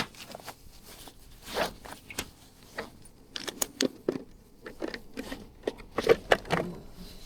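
Close handling noise: a zipper being worked among irregular clicks, scrapes and rustles of gear.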